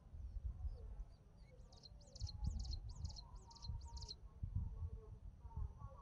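A small songbird calling a quick series of about seven high, sharp notes, roughly three a second, over a low, uneven rumble.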